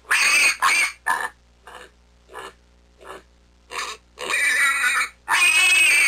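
Wild boar piglets squealing: a string of short calls, then two longer, louder squeals in the last two seconds.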